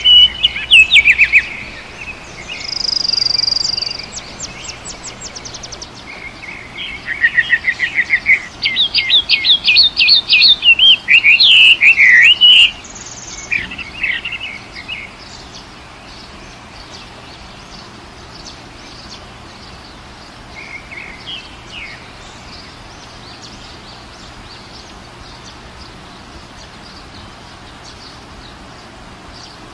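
Birds chirping and singing in loud runs of quick repeated notes through the first half, then mostly a faint steady hiss with one brief call later on.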